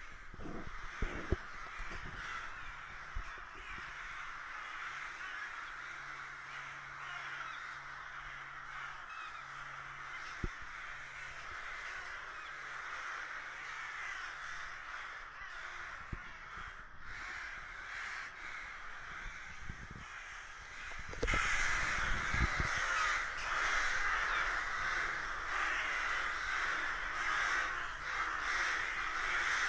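A large flock of crows cawing together in a dense, continuous chorus, which grows louder about two-thirds of the way through.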